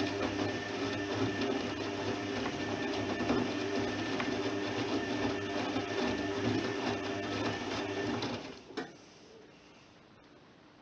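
Privileg 3020 washing machine's motor turning the drum in the wash, a steady mechanical hum that stops about eight and a half seconds in. A few faint clicks follow in the pause.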